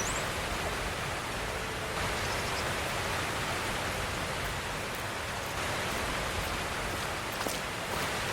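Hail mixed with rain falling steadily, a dense, even hiss.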